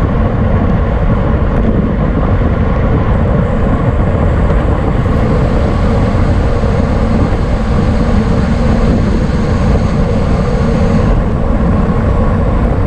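Wind rushing over the microphone of a camera riding along on a racing bicycle: a loud, steady, low rumble that never lets up.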